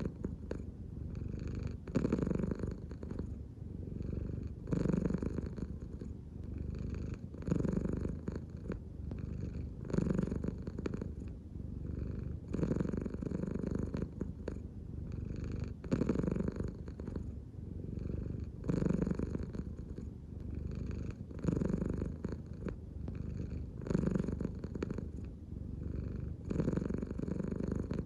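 An American Shorthair cat purring steadily, the purr swelling and easing in a slow regular rhythm about every two to three seconds as it breathes in and out.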